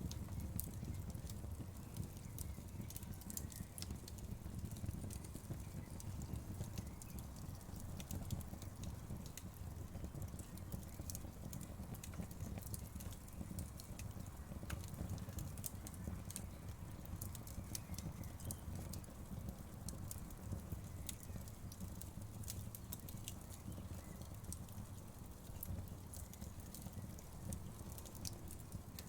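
Wood fire burning in a fireplace, crackling throughout with many small sharp pops and snaps over a low, steady rumble of the flames.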